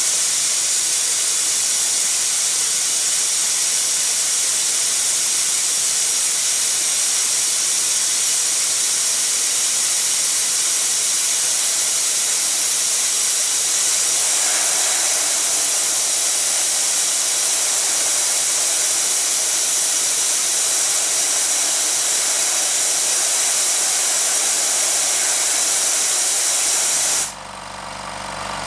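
Compressed air hissing steadily out of the HBM 6 PK 150-litre compressor's tank as it is emptied. Near the end the hiss stops suddenly and the compressor's motors start running, growing louder.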